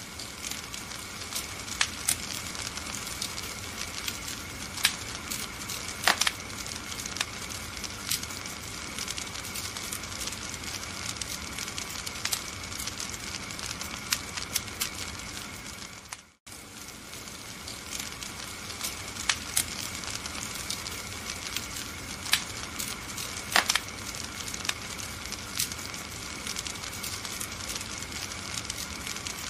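Fireplace fire crackling, with frequent sharp pops over a steady hiss. The sound cuts out briefly about halfway through and fades back in.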